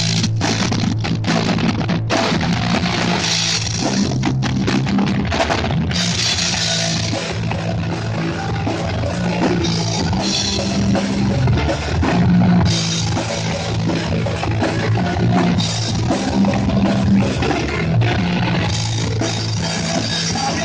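Live hardcore punk band playing a fast, loud song with distorted guitars and pounding drums.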